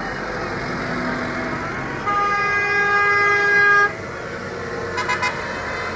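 A vehicle horn held for about two seconds on one steady note, then about a second later three quick, higher-pitched toots from another horn, over the steady rumble of passing engines.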